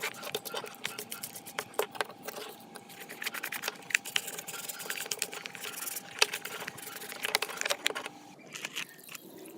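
Irregular clicking and tapping of small hard objects being handled, over a faint steady hum that stops a little before the end.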